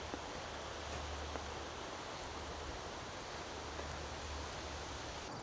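Steady outdoor wind noise: an even hiss with low, uneven rumbling from wind buffeting the microphone.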